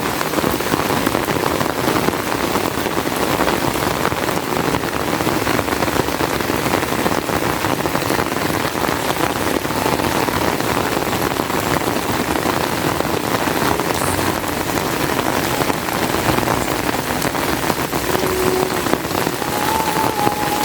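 Heavy rain falling steadily, a dense hiss of pattering drops. A faint humming tone comes in near the end.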